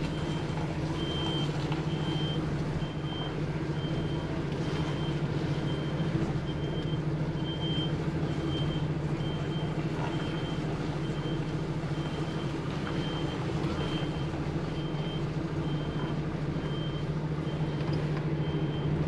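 A reversing alarm beeps steadily about once a second over a lorry's diesel engine running at low revs.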